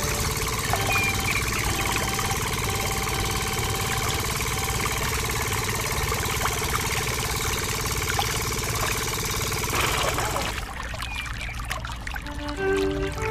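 A small motor running steadily with water pouring. About ten seconds in, the sound drops to a quieter trickle with light clicks, and music starts near the end.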